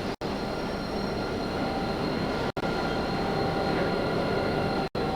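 A train running, heard as a steady rumbling noise with faint, steady high tones over it. The sound drops out for an instant three times.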